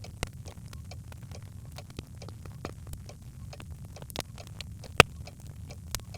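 Birch logs crackling in a fireplace: scattered irregular pops and snaps over a low steady rumble of the fire, with one sharp, louder pop about five seconds in.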